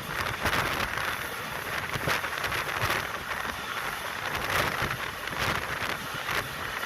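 Circar Express passenger train running: a steady rushing noise of wheels on the rails and air streaming past, with irregular clatter and wind buffeting the microphone.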